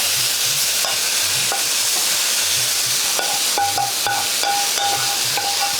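Lamb curry sizzling on a hot tawa (iron griddle pan), a steady frying hiss with light scrapes and knocks of utensils. Just past halfway a run of short high tones starts, about three a second.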